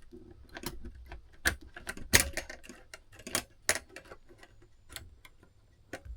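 Sharp, irregularly spaced metallic clicks from a Seth Thomas clock movement as its mainspring is let down with a let-down tool, the loudest about two seconds in.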